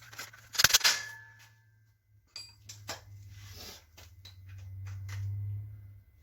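Metal clanking on bicycle parts: a loud clatter of strikes about a second in that leaves a short ringing note, then lighter clicks and taps, with a low hum swelling near the end. It is typical of tools being banged against a seized bike cog to free it up.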